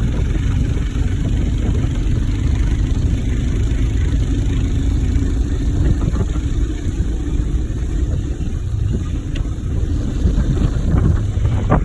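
Royal Enfield motorcycle running steadily on the move: a continuous low rumble.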